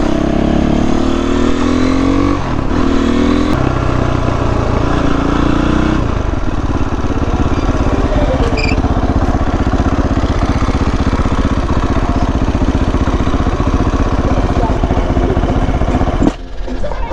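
Motorcycle engine accelerating hard, its pitch climbing and then dropping at upshifts about two and a half and three and a half seconds in, then running at a steady speed.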